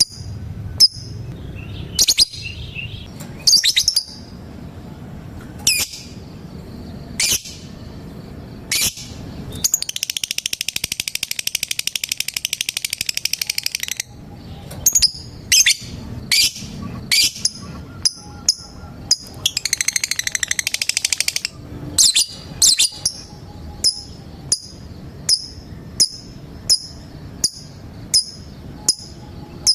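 Lovebirds calling: sharp, high single chirps repeated about once a second, the ticking 'ngetik' call. About a third of the way in, a long rapid chattering trill (the 'ngekek') runs for about four seconds, and a shorter one comes about two-thirds through.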